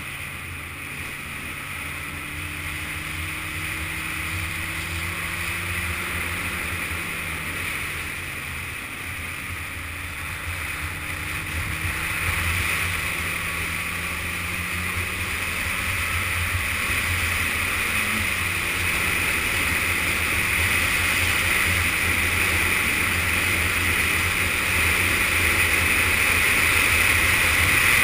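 Yamaha FZS600 Fazer's inline-four engine running under way, with a steady rush of wind and road noise. The engine pitch drops about eight seconds in and then climbs slowly, with another small step down a little past halfway, as the rider changes gear. The rush of air grows louder toward the end as speed builds.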